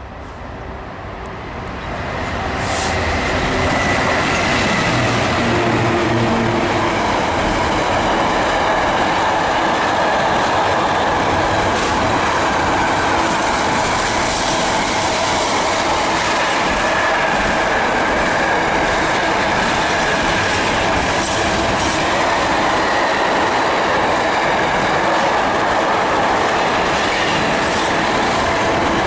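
A GBRf Class 66 diesel locomotive's two-stroke V12 engine draws close and passes, its sound building over the first few seconds. A long train of container wagons then rolls by with a steady loud rumble and wheel clatter, and thin high tones from the wheels come and go.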